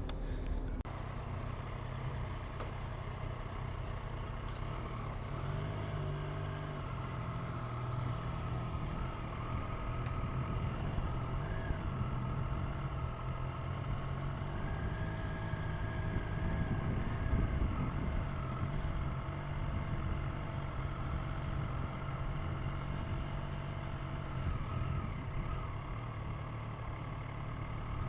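An engine running steadily at low speed, with a low, even hum that shifts slightly in pitch a few times.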